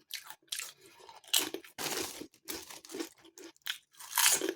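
Close-up crunching and chewing of Walkers Sensations Thai sweet chilli potato crisps in the mouth, in irregular crackly bursts, loudest near the middle and again near the end.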